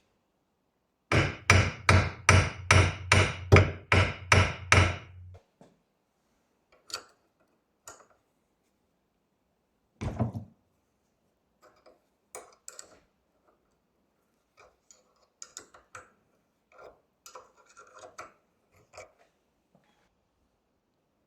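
A hammer striking about a dozen times in quick, even succession, then one heavier knock about ten seconds in, followed by scattered light taps and clinks of tools and parts being handled.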